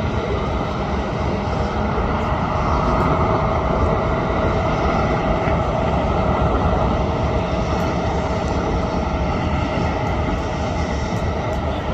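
Jet airliner engines running loud and steady, a dense rushing noise with one held whine.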